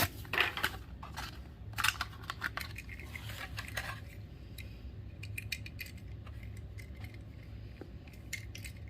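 Hands handling toy packaging and small die-cast cars: a run of sharp plastic crackles and clicks for about the first four seconds, then only faint, scattered light ticks.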